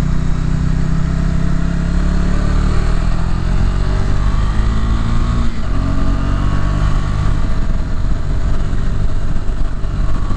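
Motorcycle engine pulling hard under load up a steep climb. Its pitch rises, breaks briefly about five and a half seconds in, then holds steady.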